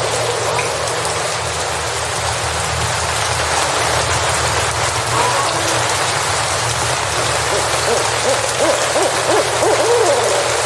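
Steady rain falling in a forest, a dense even hiss, over a steady low hum. A series of short hooting calls comes in near the end.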